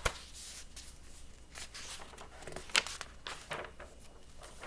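Paper rustling and soft taps from a picture book being handled, a handful of short, separate rustles.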